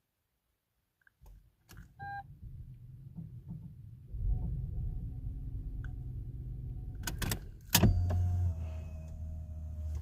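Lexus RX400h making electrical noises as it is tried but fails to start: a short chime about two seconds in, then a steady electric motor whirr from about four seconds. After a few sharp clicks near the eight-second mark the whirr grows louder, and it cuts off at the end.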